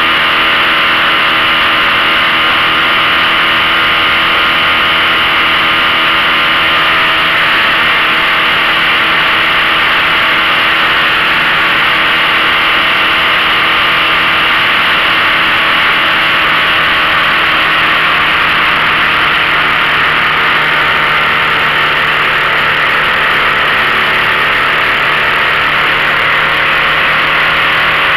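15 hp outboard motor running steadily under way, its pitch holding nearly constant, with a steady rushing noise over it.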